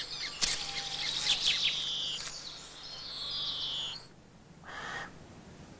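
Woodland birds singing, a mix of quick chirps and long, slightly falling whistled notes, which stop about four seconds in; a brief soft swish follows near the end.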